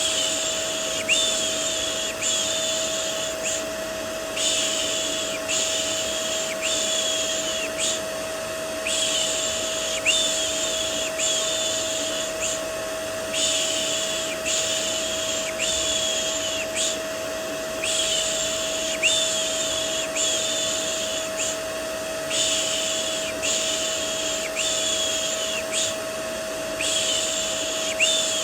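Rhythmic "shh" shushing for soothing a baby, about one shush a second in runs of four with short pauses. It sits over a steady vacuum cleaner drone with a constant hum.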